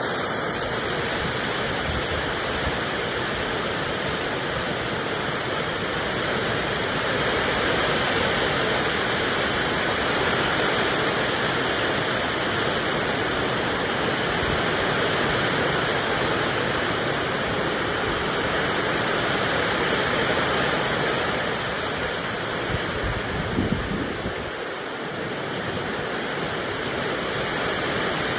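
Heavy rain and hail coming down hard, a dense steady hiss of falling water and ice that eases slightly about 24 seconds in.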